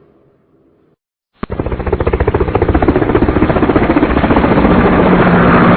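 Faint hiss, then a brief silence, then a sudden click about a second and a half in and a loud, rapid pulsing mechanical noise that grows slightly louder.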